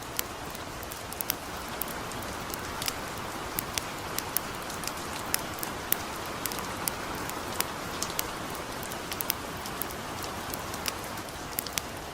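Light rain falling steadily with a wood campfire crackling: a soft even hiss under irregular sharp pops.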